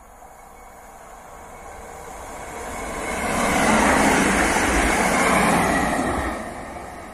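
Electric multiple unit passing at speed, its wheels rumbling and hissing on the rails: the sound builds over about three seconds, stays loud for a few seconds as the train goes by, then fades.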